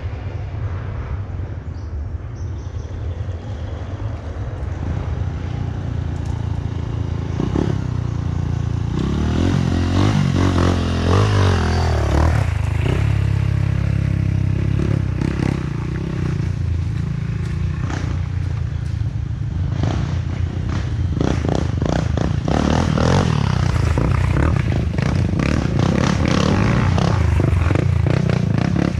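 Off-road trail motorcycle engines running and revving, with clattering and scraping mixed in.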